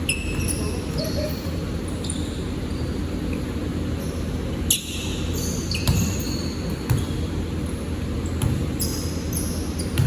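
Basketball game in a gym: the ball bouncing on the court several times, about a second apart, with short high sneaker squeaks over a steady low rumble of the hall.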